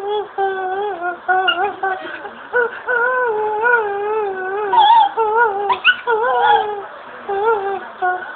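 Dog whining in a string of long, wavering cries, one after another.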